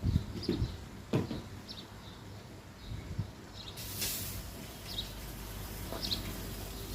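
Scattered knocks and bumps with a bird chirping now and then; about four seconds in, a steady hiss of water spraying from a hose onto a vehicle starts and keeps going.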